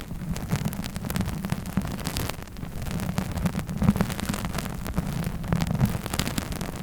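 Close-microphone ASMR tapping and rubbing: a dense, continuous stream of quick, muffled taps and scratches with a heavy low thud under them.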